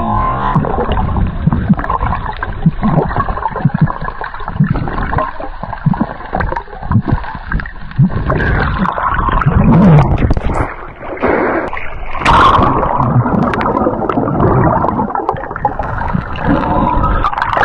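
River water gurgling and splashing close around the microphone, with many short low knocks and a brief louder splash about twelve seconds in.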